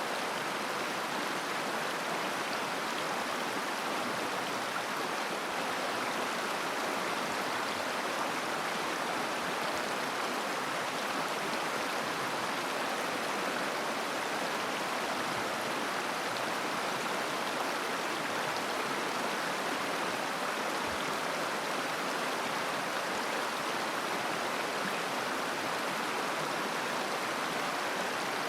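A mountain river flowing, its water running over rocks in a steady, unbroken rush.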